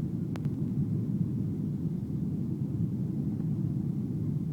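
Cabin noise inside a Boeing 737-700 on approach: a steady low rumble of the engines and airflow. A faint click comes about half a second in.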